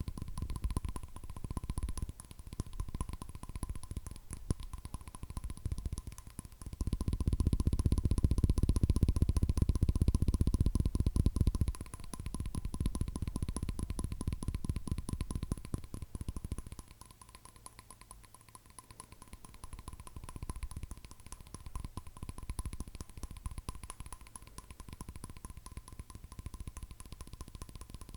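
Fingernails tapping rapidly on hard objects in a dense run of taps. The taps are loudest and fullest from about a quarter of the way in to nearly halfway, then grow softer from a little past the middle.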